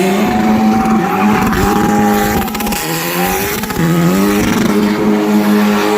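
Formula 4 race car's engine running at high revs, holding a nearly steady pitch with two brief dips partway through before climbing back.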